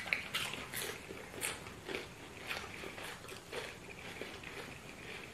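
Close-up eating sounds: wet chewing and lip smacks of people eating banku and fried fish by hand, irregular short smacks and clicks a few times a second, loudest in the first second.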